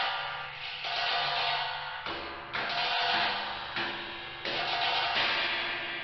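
Experimental percussion soundtrack: a string of sharp, crash-like noisy hits about a second apart, each fading over a second or less, over low steady tones.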